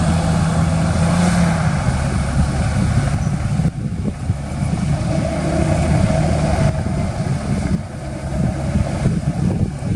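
Heavy-equipment diesel engine running under load, with a steady low hum that stops about two seconds in.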